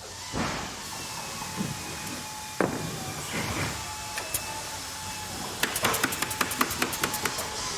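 Factory machinery ambience: a steady hum and hiss with faint whining tones, a few dull thuds and whooshes in the first half, and then a quick run of sharp mechanical clicks, about eight a second, for roughly two seconds.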